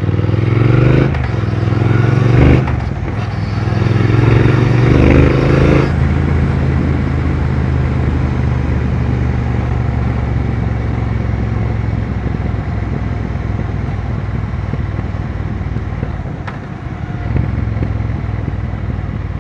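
2020 Triumph Speed Twin 1200's parallel-twin engine accelerating through the gears, its pitch rising three times with a break at each shift, then running steadily at cruising speed, easing off briefly near the end before picking up again.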